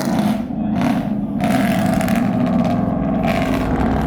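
A truck engine and exhaust running loudly, with a dense low rumble and a higher hiss that swells and drops away several times.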